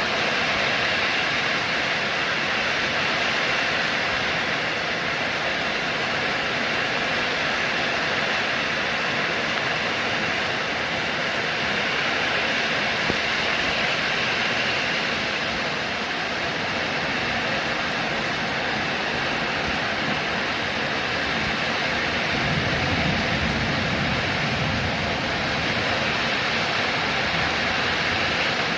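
Steady rain, an even hiss of falling water, with a low rumble swelling about two-thirds of the way through.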